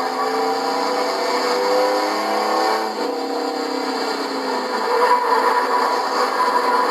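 Racing trucks' engines running hard in a pack, several engine notes at once. The notes climb in pitch for about three seconds, then drop suddenly and run on steadily.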